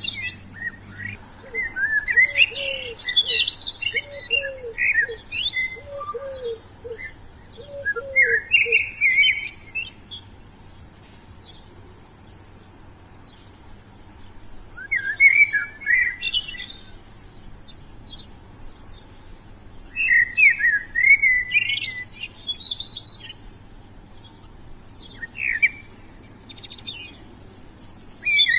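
A songbird singing in bursts of rapid, high chirps and sweeping whistles, a few seconds apart with short pauses between. During the first half a fainter series of short, low notes repeats in small groups.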